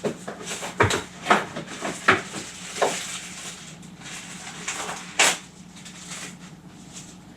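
Objects being handled and set down while parts are searched for: a series of irregular knocks and rustles, the loudest about five seconds in, over a faint steady low hum.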